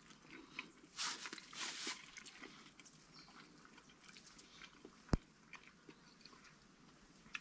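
A person biting into and chewing a SPAM wrap, faint and crackly, with a few louder crunchy bursts between one and two seconds in and a single sharp click a little after five seconds.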